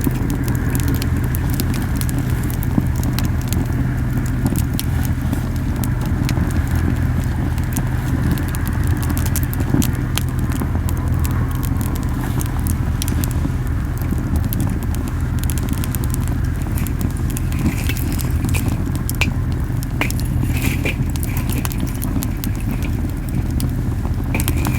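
Camellia wood campfire burning hot: a steady low puffing rumble from the strong flames, with sharp pops and crackles scattered throughout. The rumble is heavy because the fire is burning too fiercely.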